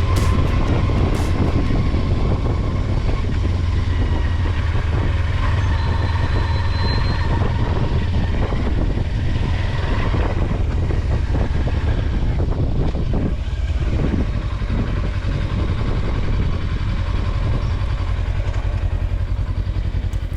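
Kawasaki Versys-X 300's 296 cc parallel-twin engine running steadily at road speed, with wind rushing past the microphone.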